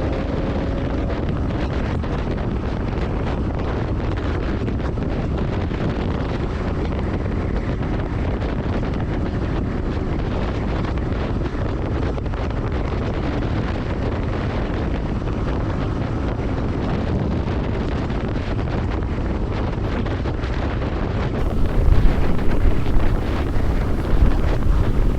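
Steady wind buffeting the microphone of a moving motorcycle, with vehicle noise underneath; it grows louder and gustier near the end.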